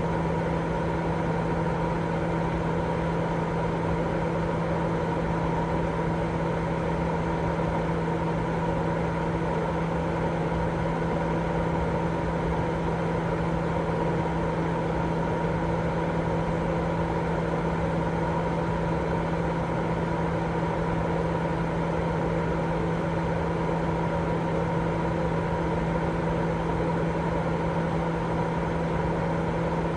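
Continuous sleep-aid white noise: a deep, even hiss with a steady low hum running under it, unchanging throughout.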